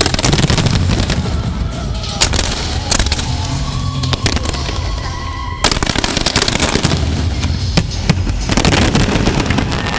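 Fireworks going off in quick succession, a dense crackle of bangs with sharper, louder reports about two, three, five and a half and eight and a half seconds in, over show music.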